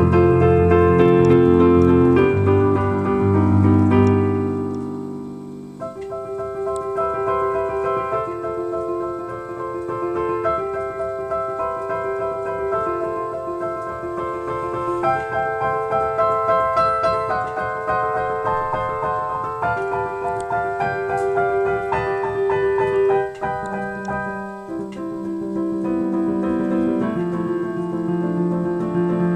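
Instrumental keyboard music with a piano sound: a melody of held notes over low bass notes. The bass fades out about six seconds in and comes back near the end.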